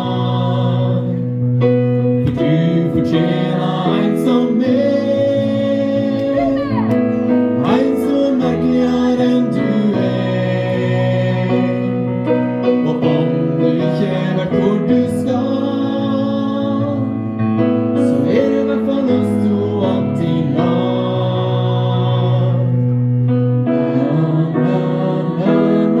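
Choir singing long held notes over a piano accompaniment, moving through slow chord changes.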